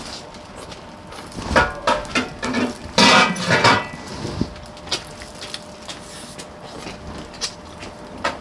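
Spoons and chopsticks knocking and clinking against bowls while eating, a scatter of sharp clicks with the loudest cluster about three seconds in.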